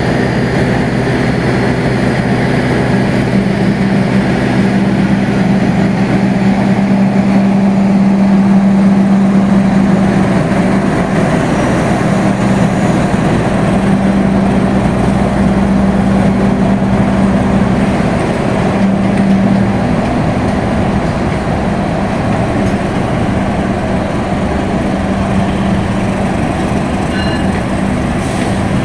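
Diesel-hauled passenger train running past: a steady engine drone over the rumble and clatter of the rolling coaches.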